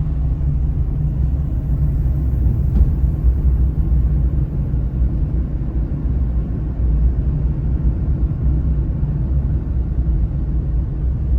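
A steady, loud low rumble with no distinct events, most of its energy in the deep bass.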